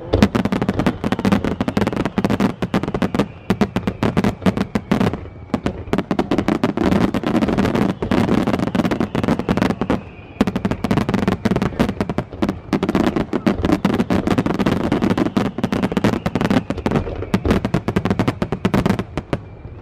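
Aerial fireworks barrage: shells bursting overhead in a dense, rapid run of loud booms and crackles, with a short let-up about halfway through.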